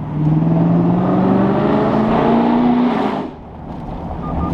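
A car engine accelerating, its note rising steadily for about three seconds before dropping away suddenly; a steadier engine hum returns near the end.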